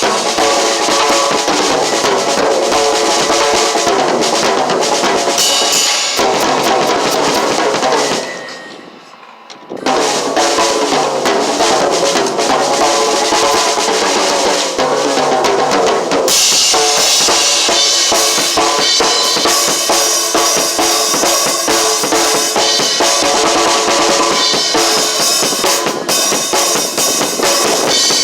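Drum kit played with bass drum and snare, together with music that has pitched parts. The sound thins out about eight seconds in and comes back in full about two seconds later. From about sixteen seconds the top end grows brighter and hissier.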